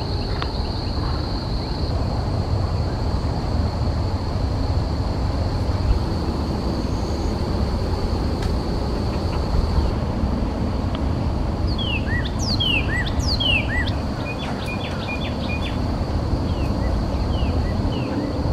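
Wild birds chirping, a quick cluster of short sweeping call notes in the second half followed by a run of brief repeated chirps, over a steady low rumble of outdoor background noise and a thin high whine.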